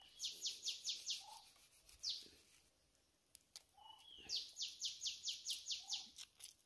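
A wild bird calling in two runs of quick, high, downward-sliding notes, about five a second; the second run, about four seconds in, is longer. A few short lower notes come in between.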